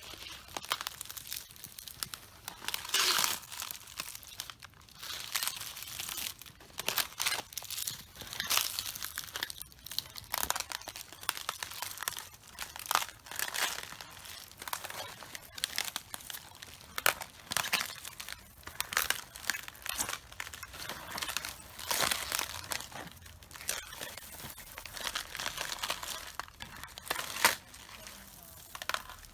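Cabbages crushed underfoot by someone walking on them: leaves crunching, crackling and tearing in irregular bursts, one or two a second.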